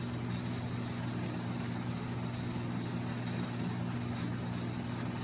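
Steady background machine hum with a faint, thin high whine above it, unchanging throughout; no handling clicks or knocks stand out.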